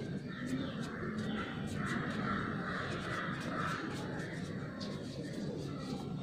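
A bird calling harshly over and over through the first two thirds, over a steady low background.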